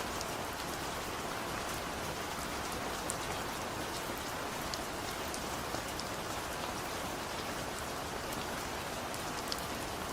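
Steady gentle rain falling, an even hiss with scattered sharp drop ticks, no thunder.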